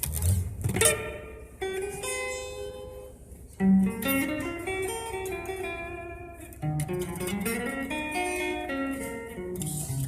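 Guitar being played slowly: single notes and chords plucked every couple of seconds and left to ring out and fade.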